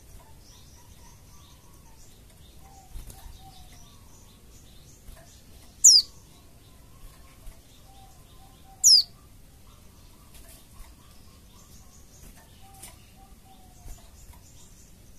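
White-eye (pleci) calls: two loud, thin, very high notes about three seconds apart, each a quick falling sweep, over faint scattered chirping.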